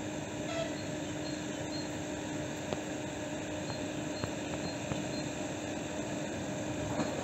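Electric passenger trains at a station platform: a steady electrical hum with a constant tone over an even rumble, and a few faint clicks. A faint high-pitched beeping runs until about two seconds in.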